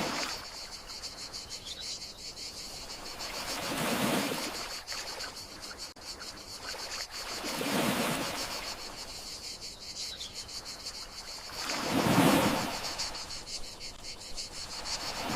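Gentle sea waves washing onto the shore, each swell rising and falling about every four seconds, over a steady high chirring of crickets.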